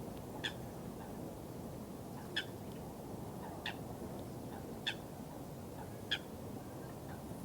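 A bird calling five times with short, sharp calls about every one and a half seconds, over a steady low rush of water.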